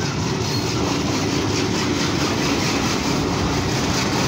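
Passenger train passing slowly: a diesel locomotive's engine hum gives way to the steady rolling noise of coaches on the rails.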